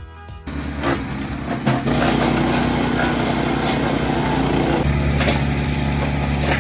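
Small engine of a MechMaxx wood chipper running steadily, with a few sharp knocks in the first couple of seconds. Its note changes about five seconds in.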